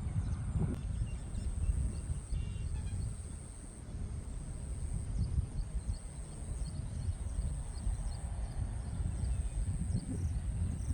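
Outdoor nature ambience: a constant low rumble of wind on the microphone, a steady high-pitched drone, and a run of short, quick falling chirps that come thicker in the second half.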